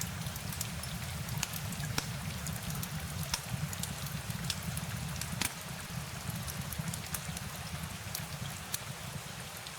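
Steady rain ambience: a constant low rumble underneath with scattered sharp drop ticks a few times a second.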